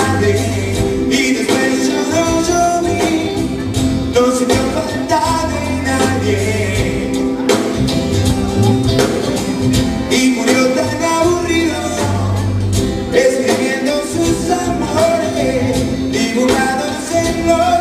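A rock band playing live: a Latin rock song with guitar, bass and percussion under a steady beat.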